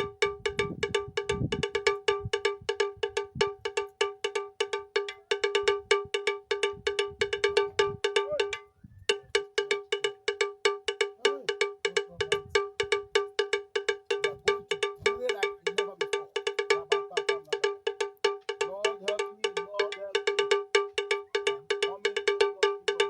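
A pitched metal bell or cowbell-like instrument struck over and over in a fast, even rhythm, several strikes a second, with a brief break about nine seconds in.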